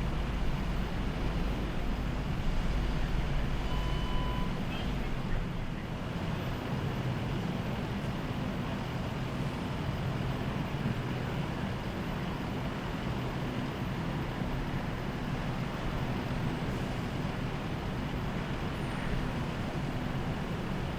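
Steady road traffic and vehicle engine rumble, with a short electronic beep about four seconds in.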